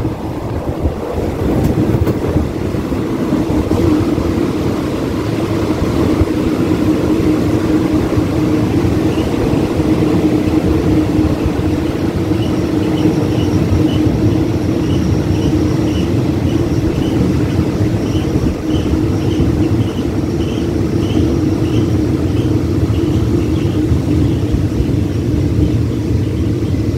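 Commuter train rolling along the station platform, heard from an open carriage window: a steady rumble of wheels on rail with a steady hum underneath. About nine seconds in, a run of short high chirps starts, about two a second, and dies away near the end.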